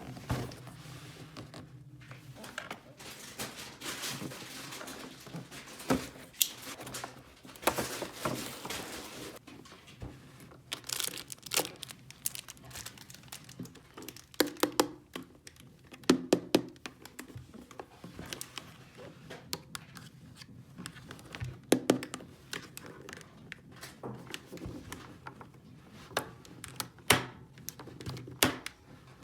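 Hands handling crinkly plastic toy packaging and small plastic toy pieces: irregular crinkling and rustling with many scattered clicks and light knocks.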